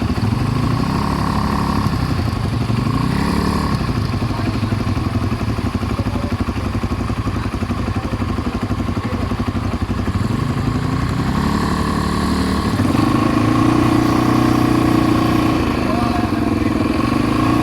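ATV engine running under way, its pitch rising as it speeds up a couple of times early on and again around eleven seconds in, then held higher and a little louder for a few seconds.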